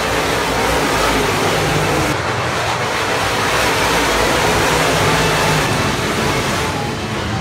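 Several stock car engines running hard on the track, growing a little louder through the middle and easing off near the end as the cars go by.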